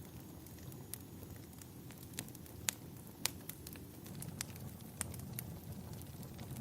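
Wood fire crackling in a fireplace: irregular sharp pops and snaps, two louder ones a little past the middle, over a steady low rumble.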